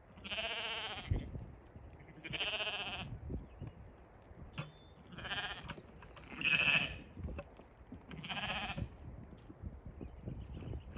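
Blackbelly sheep bleating: five wavering bleats, each just under a second long, about two seconds apart.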